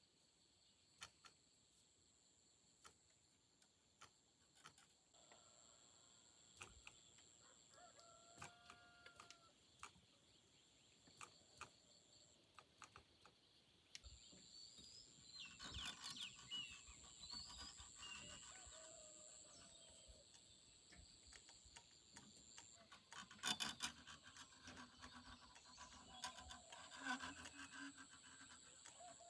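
Faint outdoor ambience: a steady thin high-pitched tone, scattered small clicks and knocks, and a few short bird-like calls, busier around the middle and near the end.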